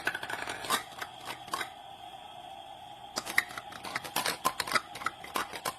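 Hard plastic toy pieces clicking and knocking as they are handled, in irregular clusters, over a faint steady tone.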